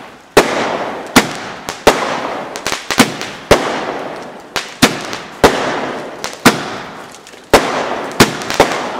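Brightstar 'Wrath of the Gods' 32-shot firework barrage cake firing shot after shot. There is a sharp bang every half second to second, uneven in spacing, and a fading hiss trails after many of the shots.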